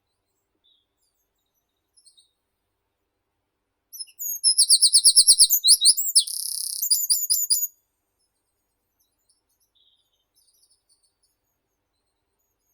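A songbird singing one loud song of about three and a half seconds, starting about four seconds in. It is a fast run of repeated high notes, then a short buzzy stretch, then a few more quick notes. Faint high chirps come from other birds before and after it.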